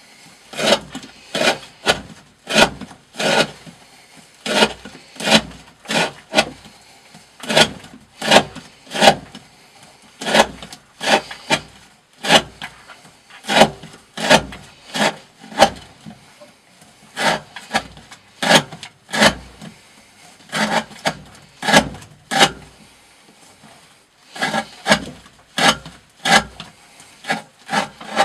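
A D2 steel knife blade with a 40° V edge slicing through 20 mm rope, stroke after stroke. Each cut is a short, sharp rasp, about three every two seconds, with a couple of brief pauses.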